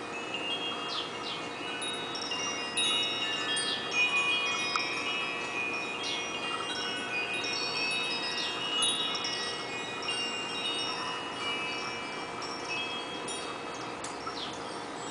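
Wind chimes ringing, with many tones struck and overlapping as they die away. Short bird chirps come through among them.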